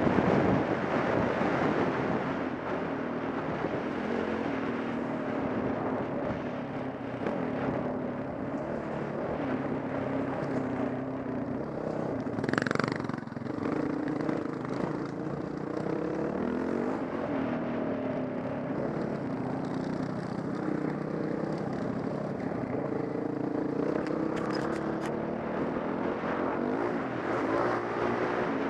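Dirt bike engine running as the bike is ridden along a trail, its pitch rising and falling with the throttle. About halfway through comes one brief sharp rise and fall in pitch.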